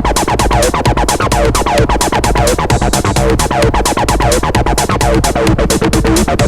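Techno played on a Moog Subsequent 37 analog synthesizer: a deep synth bassline and a short figure that slides downward in pitch, repeating about once a second over a steady, fast drum beat.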